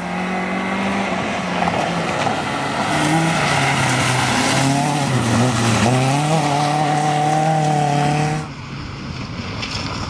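Opel Corsa A's 1.2-litre four-cylinder engine revving hard at full throttle on a rally stage. Its pitch dips briefly about halfway, then climbs back and holds high. About two seconds before the end the sound drops suddenly to a quieter, fainter engine.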